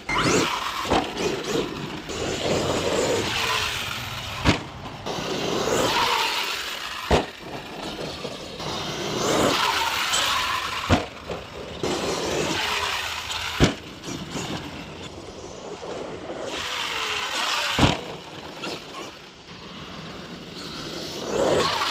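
Arrma Outcast 8S 1/5-scale electric RC stunt truck driven hard on a dirt track: its motor whine rises and falls in repeated surges of acceleration, with about seven sharp knocks spread through, the truck's hard landings and hits.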